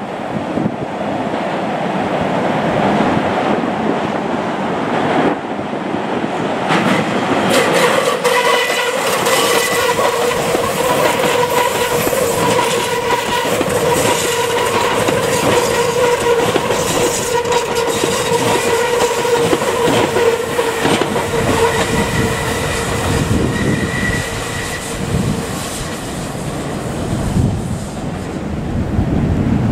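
Meitetsu electric train passing close by, wheels clacking over rail joints. A steady high tone rides over the running noise from about 8 s to 25 s.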